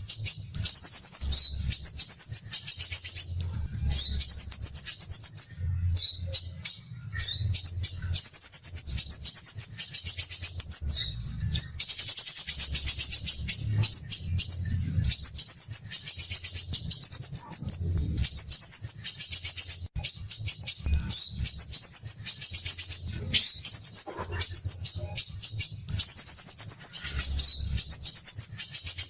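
Crimson sunbird (sepah raja) singing: high-pitched, rough and tightly packed rapid trills, in phrases of one to three seconds that follow one another with only short gaps.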